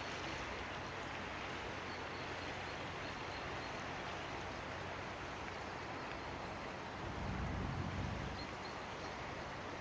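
Steady low engine hum and traffic noise, swelling briefly about seven seconds in.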